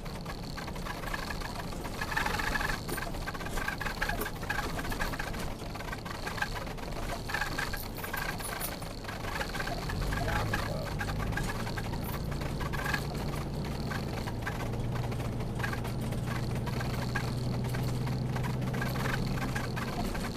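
A car engine idling with a low, steady hum that comes in about halfway through. A faint, steady high-pitched drone runs throughout.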